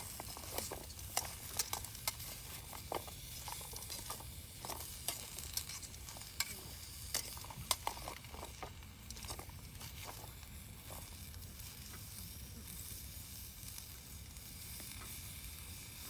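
Wood campfire crackling, with many sharp pops over a steady hiss; the pops thin out after about nine seconds and the hiss carries on.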